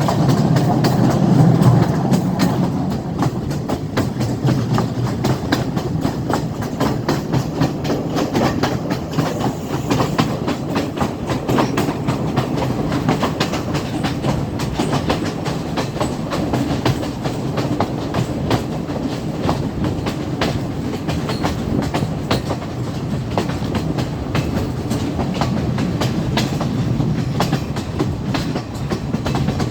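Train running along the track: a steady rumble with a continual clickety-clack of wheels over the rail joints.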